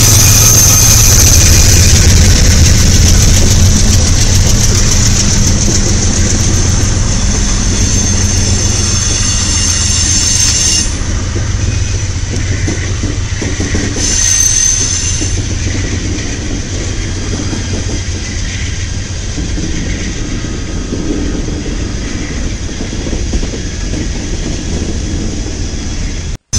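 A line of locomotives rolling past close by: steel wheels clicking over rail joints under a heavy low rumble, with a high-pitched wheel squeal. The squeal fades out about 11 seconds in, comes back briefly a few seconds later, then leaves a quieter rolling rumble.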